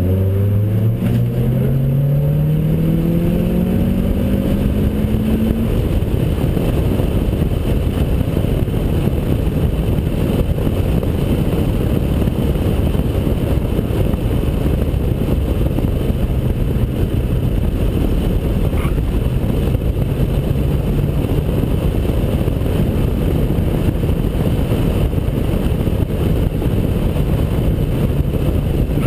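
2003 Honda Accord Type S, with a short ram intake and a custom duplex exhaust, accelerating hard on track. The engine note climbs steadily for about the first five seconds. After that a heavy rush of wind over the outside-mounted camera covers most of it, with the engine faintly underneath at speed.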